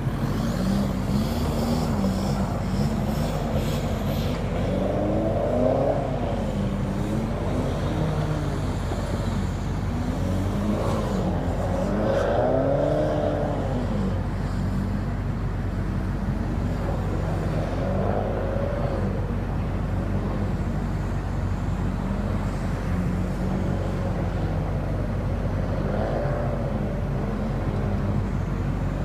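Volkswagen Jetta TDI's 1.9-litre four-cylinder turbodiesel engine running steadily while the car is driven, its pitch rising and falling every few seconds as it revs up and eases off.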